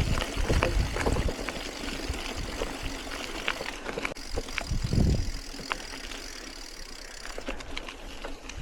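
Bicycle being ridden along a lane: tyre noise with scattered ticks and rattles from the bike, and wind gusting on the microphone at the start and again about five seconds in.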